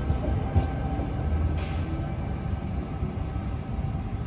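Electric double-deck V set intercity train pulling away and receding: a steady low rumble that fades slightly, with a faint steady whine over it and a short hiss about one and a half seconds in.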